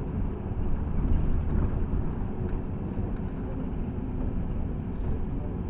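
Inside a LiAZ 6213.65 articulated city bus under way: a steady low rumble of engine and road noise.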